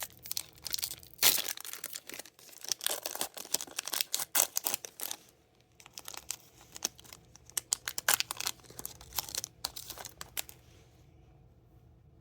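Trading-card pack wrapper being torn open and crinkled in uneven bursts of crackling, with one sharp, loud rip about a second in. The rustling stops shortly before the end.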